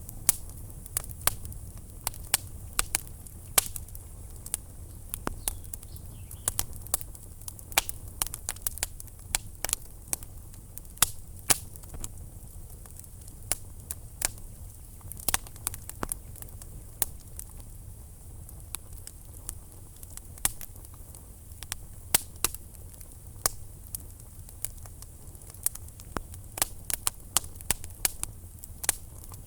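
Wood fire burning in a fireplace, crackling and popping irregularly, several sharp pops a second at the busiest, over a steady low rumble of the flames.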